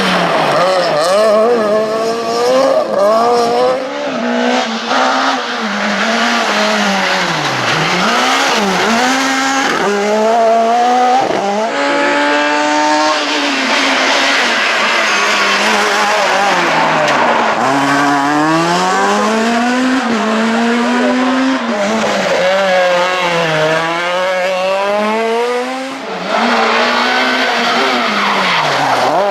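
Super 2000 rally car's naturally aspirated four-cylinder engine revving hard through the gears, its pitch climbing and dropping again and again with upshifts and lifts for corners.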